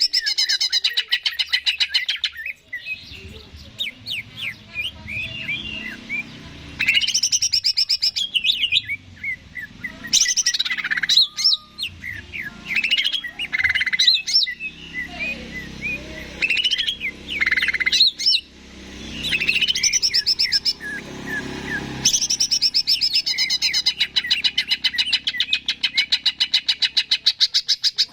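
Cucak ijo (green leafbird) singing a long, varied song: fast runs of rapidly repeated high notes alternating with short whistled and chattering phrases.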